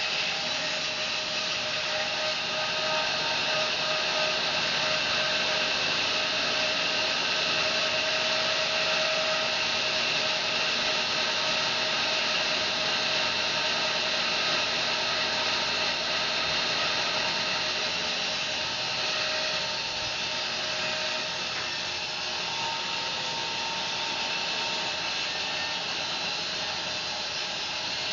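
Home-built bandsaw sawmill running and cutting through a fir log with a steady, even noise that drops a little about two-thirds of the way through.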